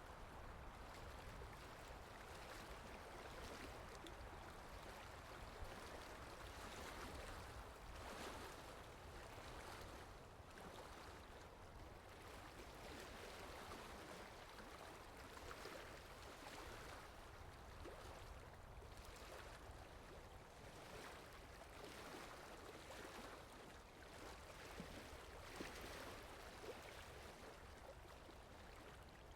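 Faint, steady rain falling, an even hiss with light scattered patters.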